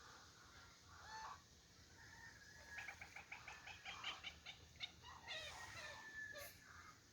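Faint bird calls: a short call about a second in, then a fast run of repeated high notes, about six a second, lasting a couple of seconds, followed by a few more chirps.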